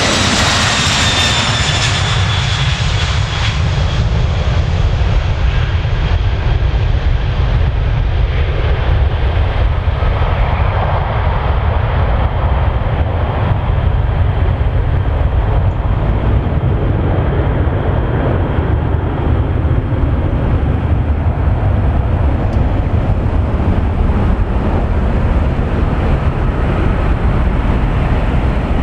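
Boeing 767-300 jet engines at takeoff power. Over the first couple of seconds the high whine drops in pitch and fades as the airliner passes. After that a steady, loud, low rumble carries on.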